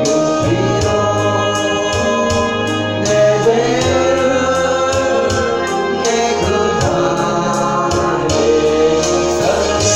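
Church praise singing: a group of voices sings a Korean worship song over keyboard accompaniment with a steady beat.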